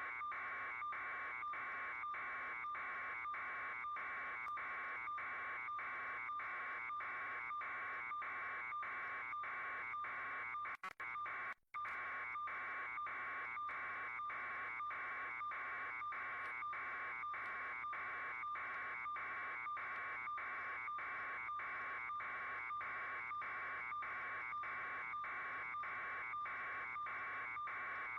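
A steady electronic buzzing tone, pulsing about twice a second, with two brief dropouts about eleven seconds in.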